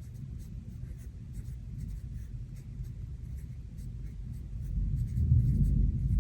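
Fountain pen writing on planner paper, a run of quick, faint nib strokes. Underneath is a steady low rumble of thunderstorm ambience that swells about five seconds in.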